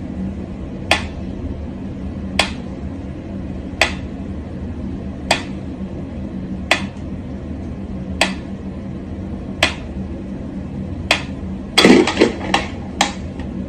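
Sharp, hard taps or knocks repeating evenly about once every second and a half over a steady low hum, with a quick run of several louder ones near the end.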